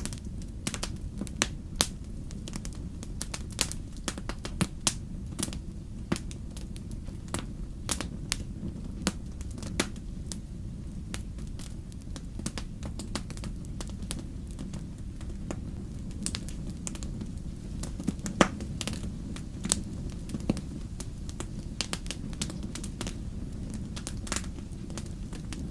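Wood fire burning in a fireplace: a steady low rumble of the flames with irregular sharp crackles and pops from the burning logs, one louder pop about two-thirds of the way through.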